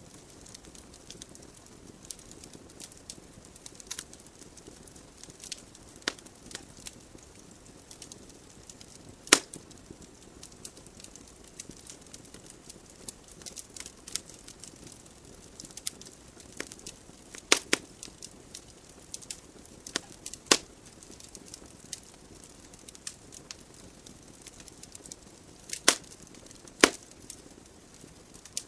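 Wood logs burning in a fireplace: a soft steady hiss of flame under irregular crackles and sharp pops, a few louder pops standing out every several seconds.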